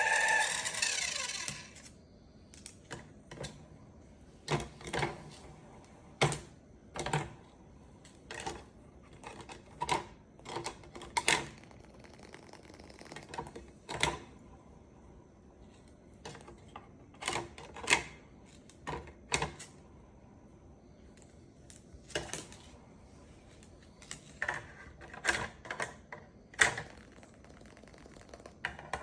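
Irregular sharp clicks and taps, single or in quick clusters every second or two, of a Moluccan cockatoo's beak pecking and gnawing at a toy truck. A louder pitched sound fades out within the first two seconds.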